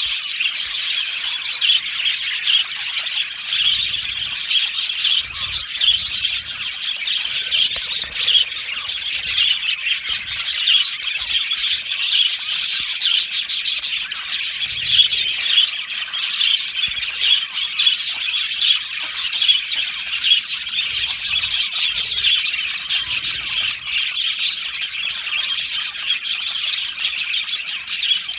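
A flock of budgerigars chirping and warbling together: a dense, unbroken chatter of many overlapping high calls.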